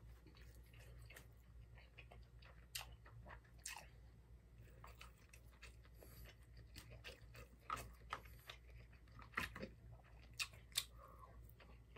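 Faint chewing with scattered soft clicks and smacks from a person eating rice and side dishes, chopsticks picking food from a plastic lunch-box tray.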